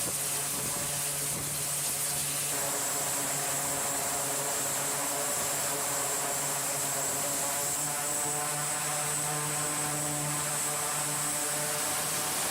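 Steady aircraft engine noise: a constant hiss with a low hum and a thin high whine, holding an even level throughout.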